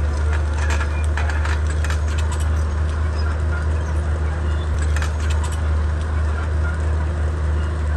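Komatsu D31P bulldozer's diesel engine running with a steady low drone, with a run of short clicks and scrapes in the first half and again about five seconds in.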